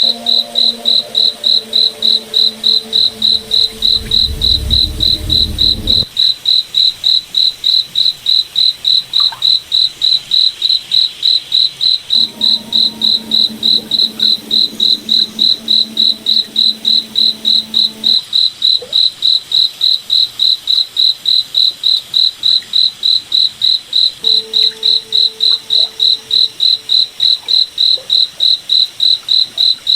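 Cricket chirping in a steady, even rhythm of about three high chirps a second. Beneath it, a low steady hum of several tones sounds for the first six seconds, swelling into a deeper rumble partway through, then again for several seconds in the middle and briefly near the end.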